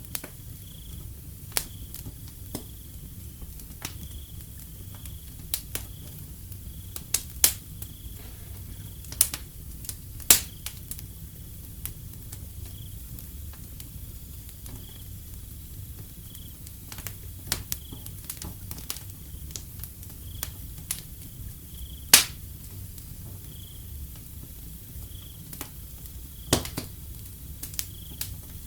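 Wood fire crackling with irregular sharp pops, the loudest about 22 seconds in, over a low steady rumble of the flames. Crickets chirp in a steady high-pitched pulse in the background.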